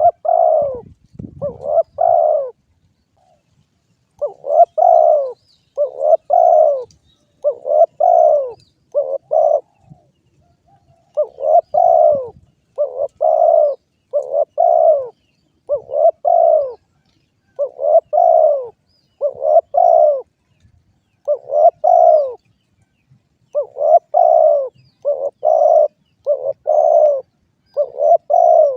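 Derkuku dove cooing over and over, a steady run of short, paired coo notes broken by brief pauses.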